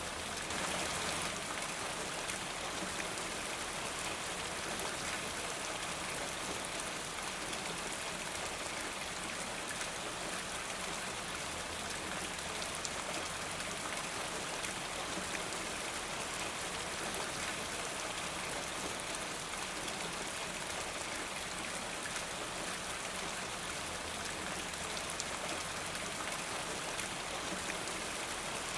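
Steady rain falling, with many small drop ticks on a hard surface, slightly heavier about a second in.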